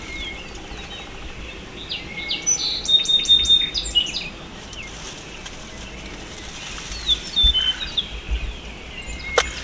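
Songbirds singing: a quick run of high chirps and whistled notes about two seconds in, and a shorter phrase later. A single sharp click comes near the end.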